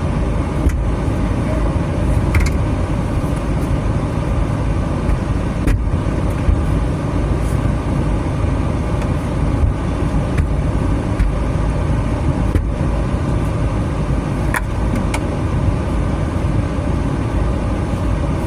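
Steady road and engine rumble of a moving minivan, with a few faint clicks.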